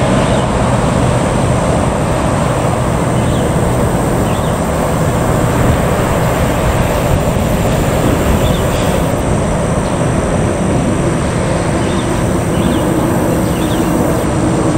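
Passenger train's carriages rolling away along the track: a steady, loud rumble of wheels on rail with a low hum underneath.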